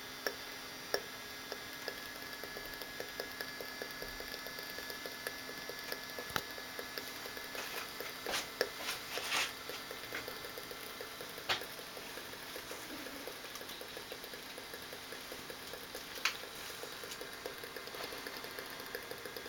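The small electric extraction fan of a model ship's smoke-generator funnel runs steadily with a faint whirr, over a soft crackle of smoke fluid heating in its burners. A few sharp clicks stand out, the loudest about nine seconds in.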